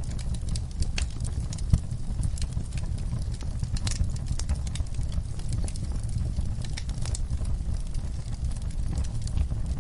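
Wood fire burning in a fireplace: scattered crackles and pops over a steady low rumble, with one louder pop a little under two seconds in.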